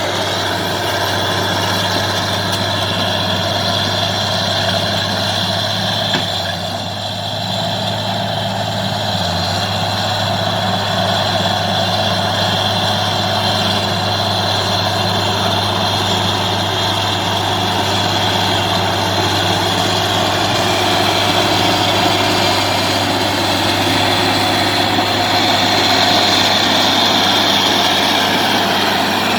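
Bulldozer's diesel engine running steadily with a deep, even hum, dipping briefly about seven seconds in and getting a little louder in the second half.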